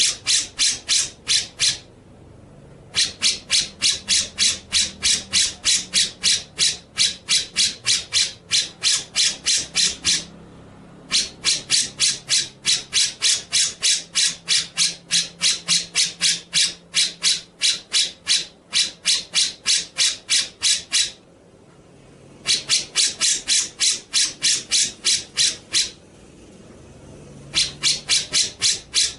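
Recorded bird call: a dry, harsh note repeated rapidly at about four a second, in long phrases broken by short pauses of a second or so, the kind of masteran recording used to tutor songbirds.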